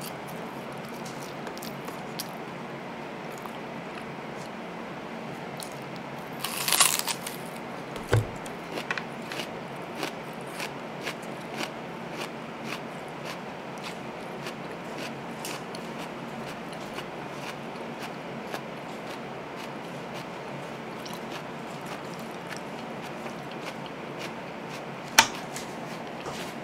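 Close-miked chewing and biting of a chicken burger, with scattered small crunches and mouth clicks over a steady hiss. A louder crunchy bite comes about seven seconds in, a low thump just after it, and a sharp click near the end.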